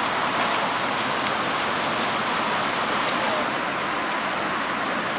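Heavy rain falling: a steady, dense hiss with faint scattered taps.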